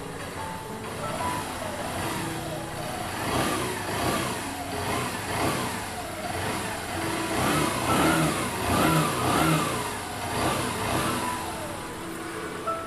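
Freshly rebuilt Honda CB Shine 125 single-cylinder engine being revved in quick, repeated throttle blips, about two a second, loudest in the middle of the stretch. This is its test run after the engine rebuild.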